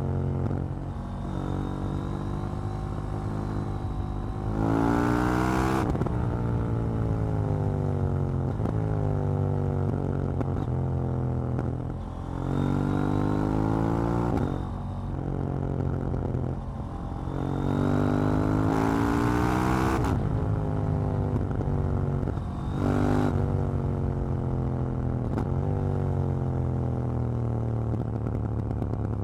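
KTM 790 Duke's parallel-twin engine and exhaust under acceleration: the revs climb in four pulls through the gears, a short one near the end, and fall away as the throttle is closed between them.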